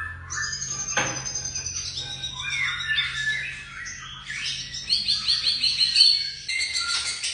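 White-rumped shama (murai batu) singing a varied run of clear whistles, slurred notes and trills, with a quick string of repeated notes in the second half, over a faint steady low hum.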